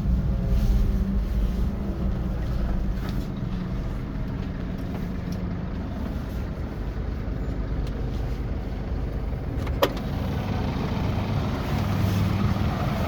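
Scania OmniExpress 360 K450EB coach's diesel engine running, with road noise, heard from inside the bus. The engine note falls slightly in the first second, and there is a sharp click about ten seconds in.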